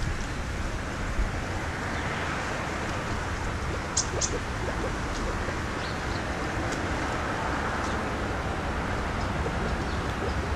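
Steady outdoor background rumble and hiss, with two short, high bird chirps close together about four seconds in and a few fainter high ticks.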